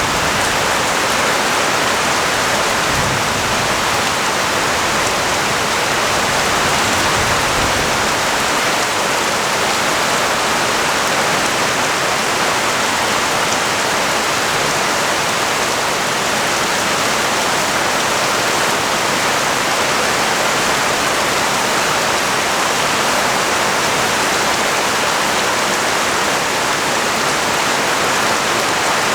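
Heavy rain pouring steadily, a dense even hiss of drops on the street and surfaces below a balcony.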